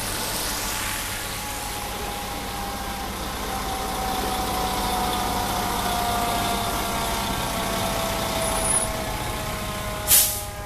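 Fire engine's motor running as the truck pulls in, its pitch slowly falling. A short, sharp hiss about ten seconds in.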